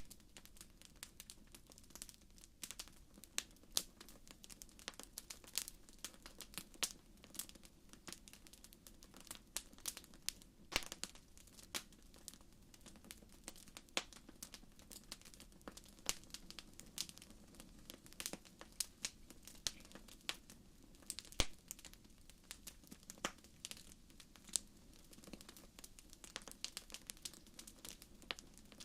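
Wood fire crackling in a fireplace: dense, irregular pops and snaps over a soft, steady hiss.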